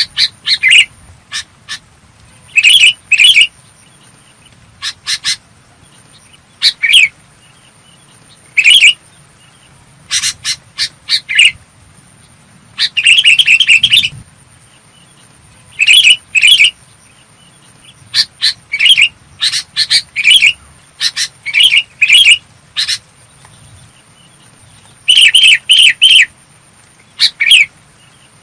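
Sooty-headed bulbul calling repeatedly: short, clear whistled notes, single or in quick clusters of two to four, with pauses of a second or two between them.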